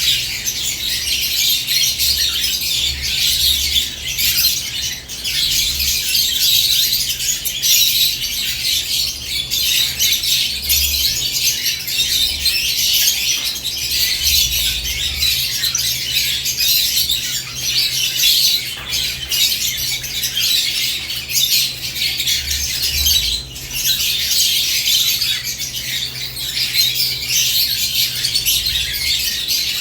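A cage of lovebirds chirping and squawking continuously in a dense, high-pitched chatter.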